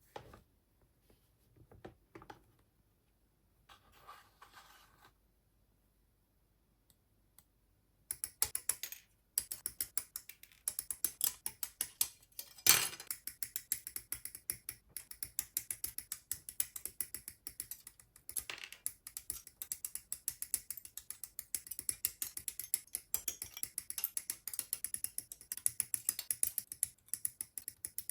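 Dense, rapid small clicks and scrapes of hand work on a plastic model kit part, starting about eight seconds in after a few faint taps, with one louder knock partway through.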